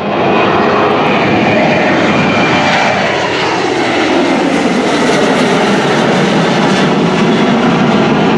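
Airplane passing close by with loud engine noise; its engine tones glide steadily down in pitch as it goes past.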